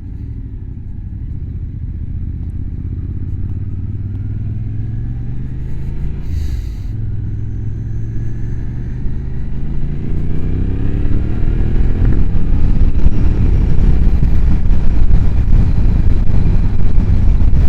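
Motorcycle engine heard from the rider's seat, running at low revs with a brief drop about six seconds in. It accelerates with rising pitch from about ten seconds in, growing steadily louder with a rushing noise as speed builds.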